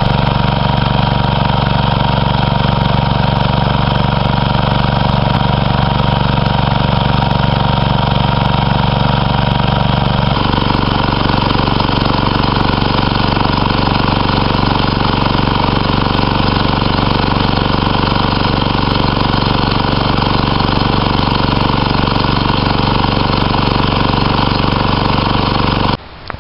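Briggs & Stratton 12 hp engine of a Homelite T-12 garden tractor running steadily, sounding healthy after its generator repair. Its note changes about ten seconds in, and the sound cuts off sharply near the end.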